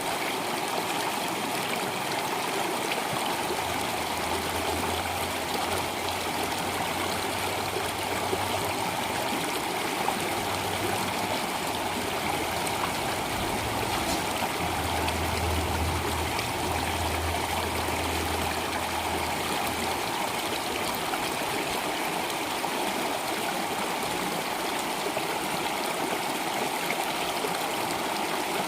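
Steady rushing and trickling of a flowing stream. A low hum comes and goes under it for a while in the middle.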